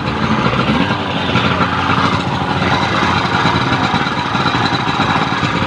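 Tohatsu V50 Rabbit portable fire pump engine running steadily, with a slight rise in speed about a second in.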